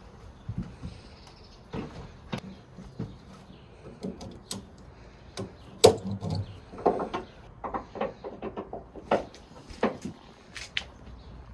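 A series of irregular knocks and clicks, a few louder thuds among them, the sharpest about halfway through.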